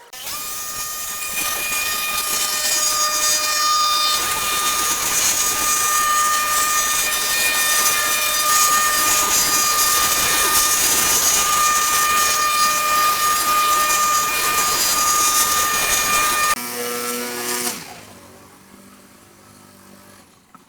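A power tool running steadily with a high whine and a loud hiss for about sixteen seconds, then switched off and winding down.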